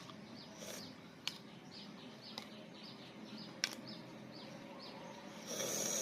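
A small bird chirping repeatedly in the background, short high chirps about two a second. There are two sharp clicks, and a brief rustle near the end.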